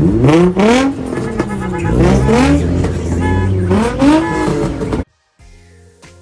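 A car engine revved hard about four times, each rev rising sharply in pitch and falling back. The sound cuts off abruptly about five seconds in, leaving faint music.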